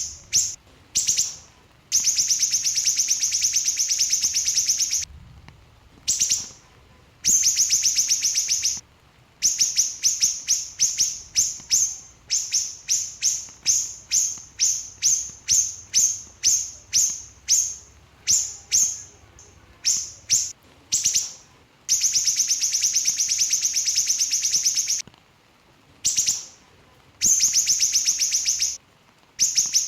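Siri-siri bird singing a rapid, tight song: long fast trills of high chirps lasting two to three seconds, alternating with runs of separate sharp chirps about three a second, with short pauses between phrases.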